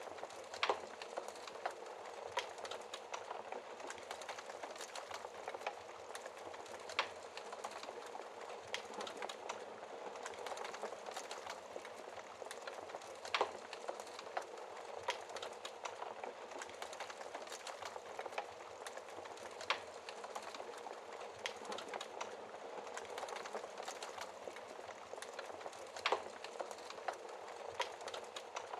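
Wood fire burning in a fireplace: a steady crackle with scattered sharp pops, a few of them louder.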